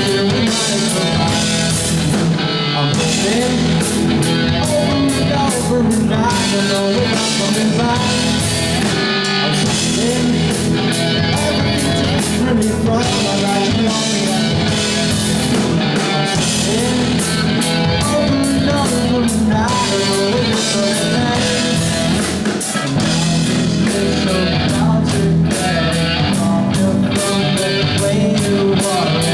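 Rock band playing live, with guitar over a drum kit keeping a steady beat.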